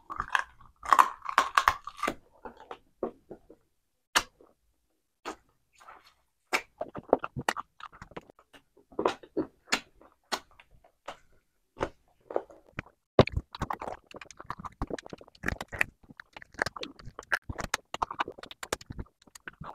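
Close-up eating sounds of a man chewing chicken: wet chewing and lip smacks in short, irregular clicks, with a denser run of mouth noise in the first couple of seconds.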